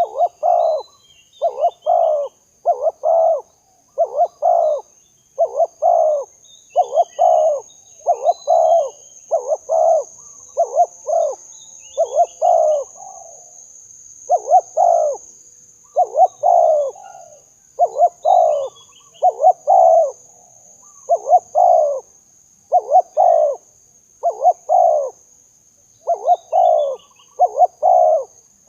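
Spotted dove cooing over and over, each call a quick run of two or three hoarse notes, about one call a second with brief pauses. Under it runs a steady high-pitched hum, and small birds chirp faintly.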